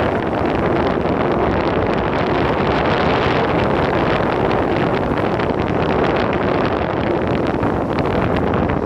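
Wind buffeting a phone's microphone while riding an electric skateboard at cruising speed: a steady, loud rush with a low rumble underneath.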